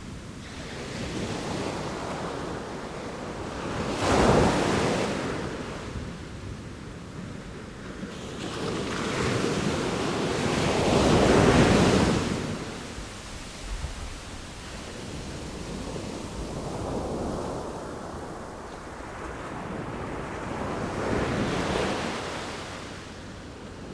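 Ocean waves breaking and washing in, rising and falling in three surges: a sudden one about four seconds in, a long loud one near the middle, and a softer one near the end.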